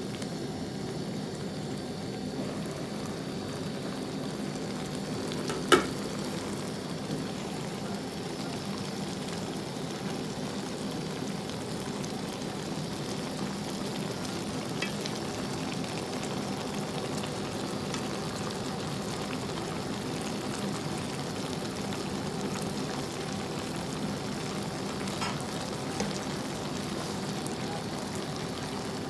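Shrimp sizzling steadily in garlic butter and juices in a wok, with one sharp clank about six seconds in as the pan's glass lid comes off, and a few faint ticks later on.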